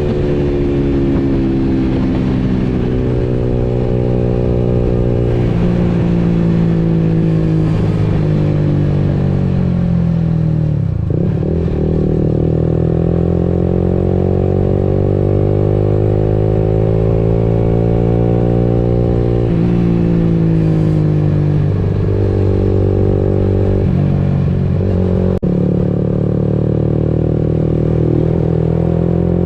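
Motorcycle engine running while riding, its pitch rising and falling with the throttle, with several short breaks where the pitch steps; it sinks low about eleven seconds in, then climbs again.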